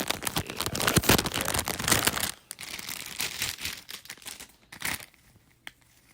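Packaging of crochet braiding-hair packs crinkling and rustling as it is handled: dense and loud for about the first two seconds, then softer, scattered rustles that die away.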